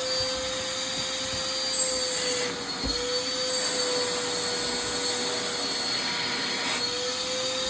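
Small household vacuum cleaner running steadily: an even motor whine over a hiss of rushing air.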